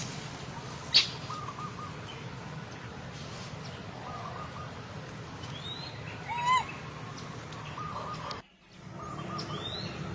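Short chirping calls repeat every few seconds, with a sharp click about a second in. A louder call rises and falls about six and a half seconds in. A low background hum runs underneath.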